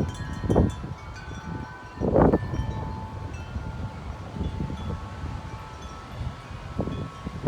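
Metal wind chimes ringing in gusty wind, their tones overlapping and lingering, over wind buffeting the microphone, with a strong gust about two seconds in.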